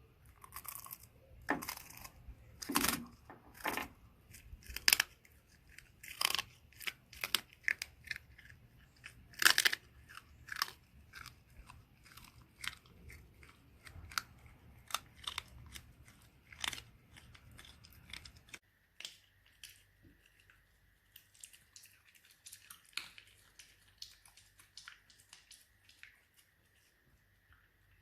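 Shiba Inu eating noisily, with loud crunching chews in quick succession that grow sparser and quieter after about halfway. A faint steady high tone sits underneath near the end.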